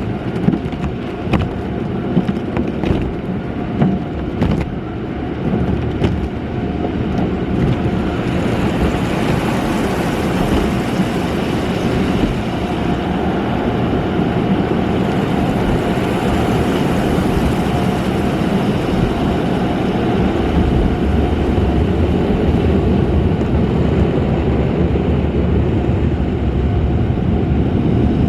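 Automatic car wash heard from inside the car: a steady mix of rumble and hiss, with a few sharp knocks in the first several seconds. The hiss grows after about eight seconds and the rumble deepens after about twenty.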